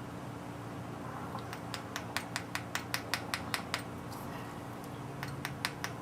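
A Ford 302 valve being hand-lapped into its seat with fine-grit lapping compound, the valve face grinding back and forth against the seat. It gives two runs of quick, light clicks, about five a second, over a steady low hum.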